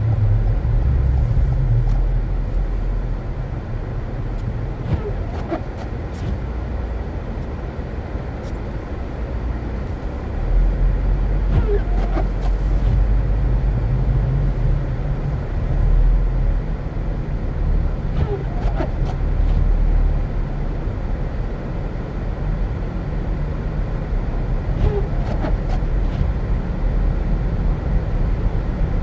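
Car driving on a snow-covered road: a steady low rumble of engine and tyres that grows louder about ten seconds in, with scattered faint clicks and squeaks.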